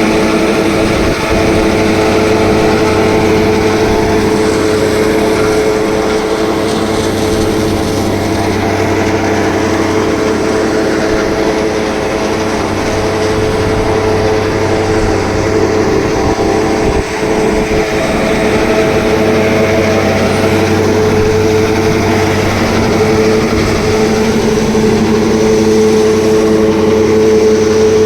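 Tractor engine running steadily, driving a silage packing machine. The machinery hum holds an even pitch throughout, with a brief dip in level about 17 seconds in.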